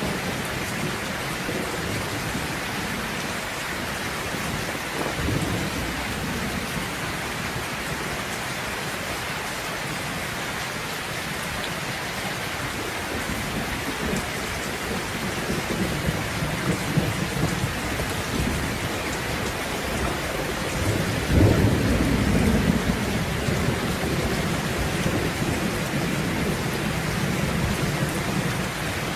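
Steady heavy rain falling, with rolls of thunder rumbling in and out; the loudest rumble swells up about two-thirds of the way through.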